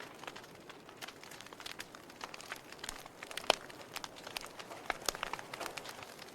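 Wood fire burning in a fireplace: a soft steady hiss with irregular crackles and pops of burning logs, one louder pop about three and a half seconds in.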